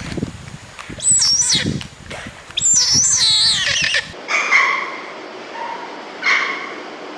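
Animal calls: two loud, high, wavering cries, a short one about a second in and a longer one starting about two and a half seconds in, then after a sudden change fainter, shorter calls.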